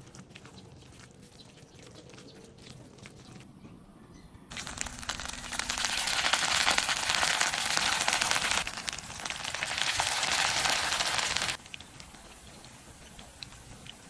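Okoy fritters frying in hot oil, a loud sizzling hiss that starts suddenly about four seconds in, lasts about seven seconds and cuts off abruptly. Before it, only faint clicks.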